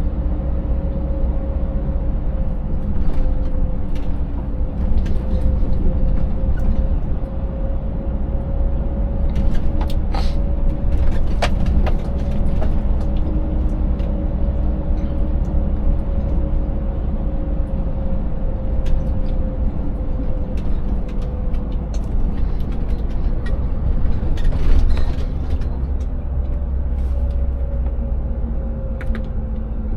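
Scania 590S V8 truck engine running steadily under way, a constant low drone whose pitch drifts slowly, with road noise and a few scattered knocks and rattles from the broken road surface.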